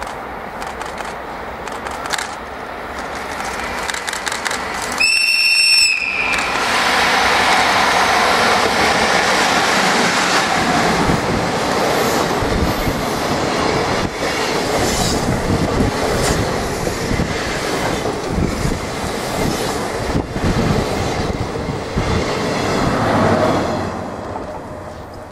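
The approaching EF64 electric locomotive sounds its whistle once, briefly, about five seconds in. Then the locomotive and its sleeper train pass through the station at speed, with loud rumbling wheel noise on the rails that fades near the end.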